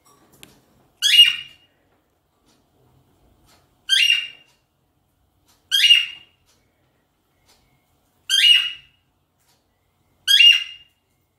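A pet bird calling: five short, sharp calls spaced two to three seconds apart, each about half a second long and fading quickly.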